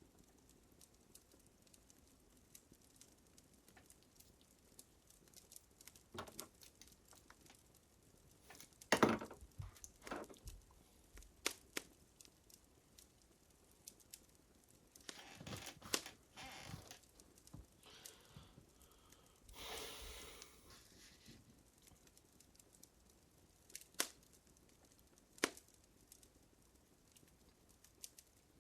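Fire crackling: scattered sharp pops and cracks a second or more apart, with the loudest about nine seconds in. A few longer rustling hisses come around the middle.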